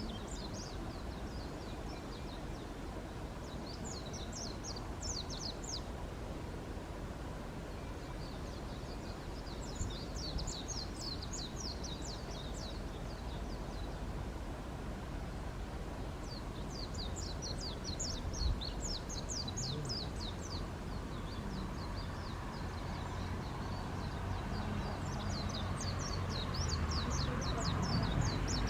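A bird calling in repeated bouts of quick, high, chattering notes every several seconds, over a steady low rumble that grows louder near the end.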